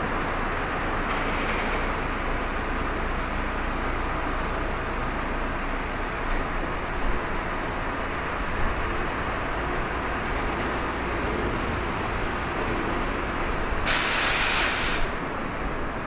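Train running through the station with a steady rumble and rush of noise. About fourteen seconds in comes a sharp burst of air hiss lasting about a second, typical of an air brake venting.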